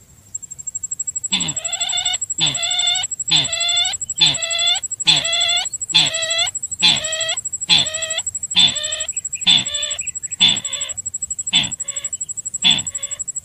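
Sintar bird lure call played back: a harsh call with several tones, repeated about once a second, turning shorter and choppier near the end. A steady high, finely pulsed trill runs beneath it throughout.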